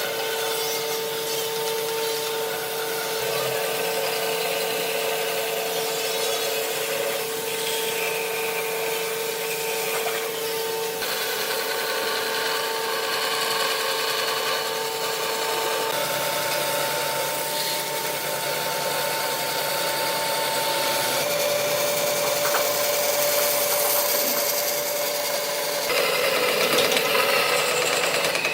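An electric power tool running steadily against wood, with a constant motor hum under a rough rubbing noise; the hum changes pitch a few times.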